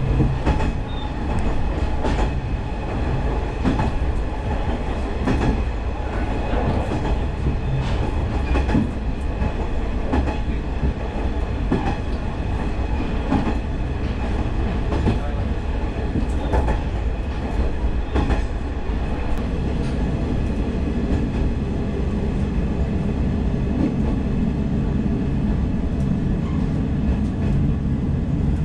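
Diesel railcar running on a single track, heard from inside the cab: a steady engine and running rumble with clicks of the wheels passing over rail joints. The clicks thin out in the last several seconds as the low rumble swells.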